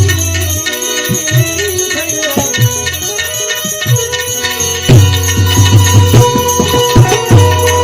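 Instrumental passage of Gujarati devotional folk music: hand-drum strokes, some with a sliding bass pitch, under held melody notes, with jingling rattle-type percussion throughout. The drumming gets busier about five seconds in.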